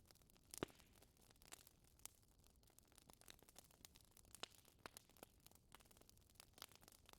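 Wood fire crackling in a fireplace: faint, irregular sharp pops and snaps, the loudest just over half a second in.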